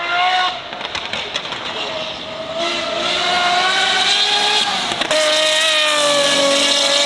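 High-revving racing car engines under hard acceleration, their pitch climbing slowly. About five seconds in the sound switches abruptly to another high-revving engine whose pitch eases gently down.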